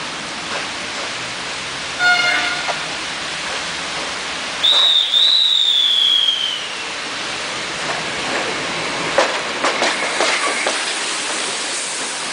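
Train on a railway line in the rain. A short horn blast sounds about two seconds in, and a single high whine falls slowly a few seconds later. Then comes a run of sharp clicks of wheels over the rail joints near the end, all over a steady hiss of rain.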